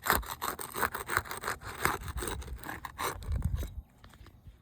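Rapid repeated scraping strokes of a tool being worked under a brittle asphalt roof shingle to break its seal, the shingle tearing as it goes; the scraping stops about three and a half seconds in.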